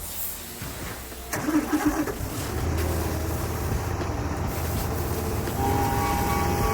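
Excavator engine starting up or throttling up with a brief rough burst about a second and a half in, then running steadily. About five and a half seconds in a steady high whine joins the engine sound.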